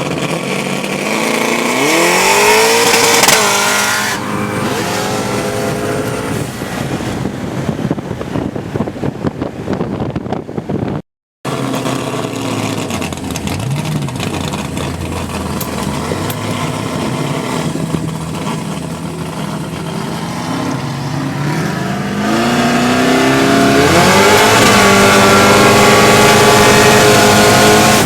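Twin-turbo Ford BA Falcon XR8's 5.4-litre V8 under hard acceleration. The revs climb steeply about two seconds in, and again near the end, where it holds high revs for several seconds. The sound cuts out for a moment near the middle.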